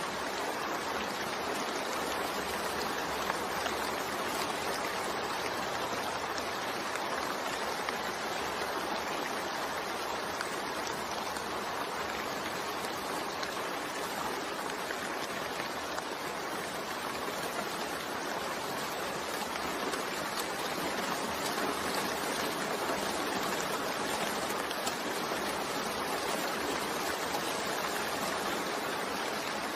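Steady rain falling, a continuous even hiss with no breaks or single drops standing out.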